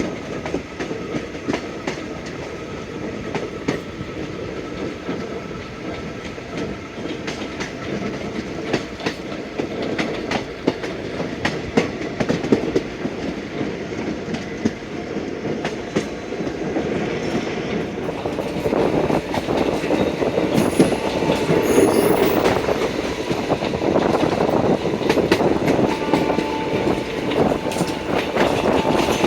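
Indian Railways passenger train running over the track, its wheels clattering rapidly over rail joints with a steady rumble underneath. The clatter grows louder and rougher about two-thirds of the way through.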